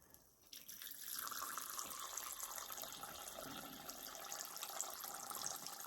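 Water being poured into a small water dish, a steady trickling pour that starts about half a second in and keeps going.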